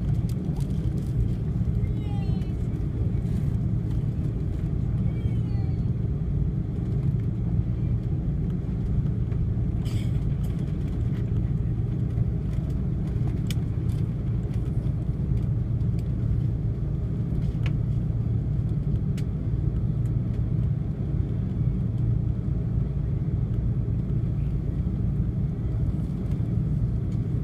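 Steady low rumble inside the cabin of an Airbus A330-300 airliner, its engines running at low power and the airframe droning as it taxis, with a few faint clicks.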